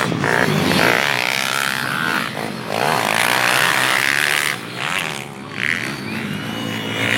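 Small single-cylinder pit bike engines revving hard, their pitch rising and falling with the throttle and dipping briefly near the middle.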